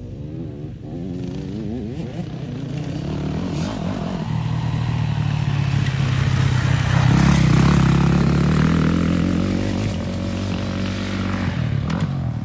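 Motocross dirt bike engine being ridden, its pitch rising and falling with the throttle and gear changes. It grows louder to a peak past the middle, then settles lower near the end.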